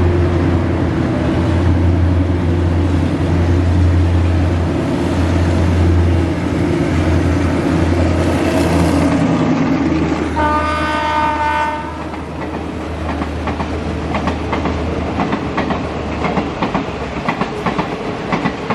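Diesel train's engine running with a steady low hum, a horn blast of about a second and a half just before the hum fades, then wheels clacking over rail joints, the clacks coming faster as the train picks up speed.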